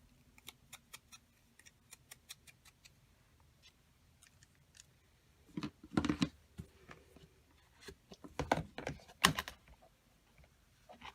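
A run of quick, light taps, about three to four a second, then two clusters of louder knocks and rustling as paper and craft tools are handled and set down, the loudest about nine seconds in.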